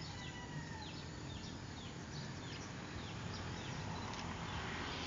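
Small birds chirping: a run of short, high, descending notes repeated a few times a second over a steady background hiss, thinning out a little past halfway.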